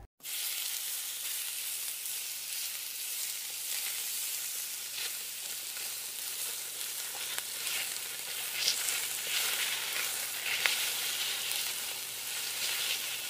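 Chopped walnuts sizzling in hot ghee in a nonstick wok, a steady frying hiss, with a few brief scrapes as a spatula stirs them.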